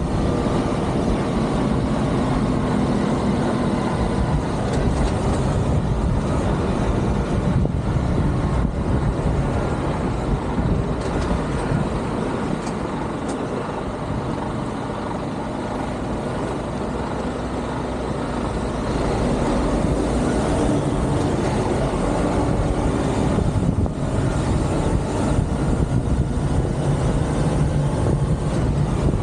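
Heavy truck's diesel engine running at low revs while the truck manoeuvres. The sound eases off somewhat through the middle and picks up again near the last third.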